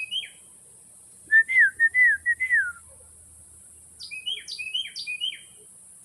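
Carolina wren singing loudly: a phrase of four repeated, downward-slurring whistled notes about a second in, followed near the end by a quicker, quieter run of sharp, higher notes.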